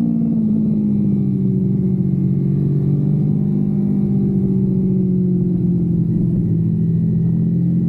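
Kawasaki Versys-X 250's parallel-twin engine pulling steadily under way, its note dipping slightly at the start and then holding nearly level.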